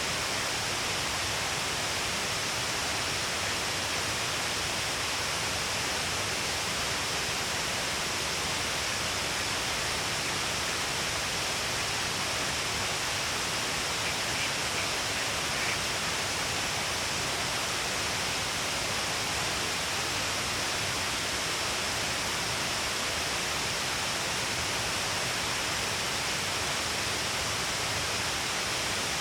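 Steady rushing of a wide waterfall, many streams pouring down a long cliff face, an even unbroken roar of water. A faint brief tick or two sounds about halfway through.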